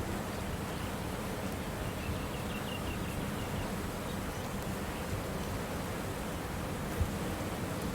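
Steady hiss of outdoor ambient noise with a faint low hum, a quick run of high chirps about two seconds in, and a single soft thump near the end.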